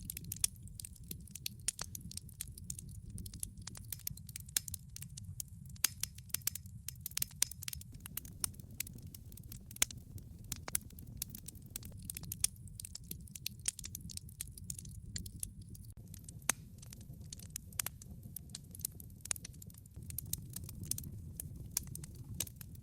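Wood fire crackling in a fireplace: many irregular sharp pops and snaps over a steady low rumble of burning logs.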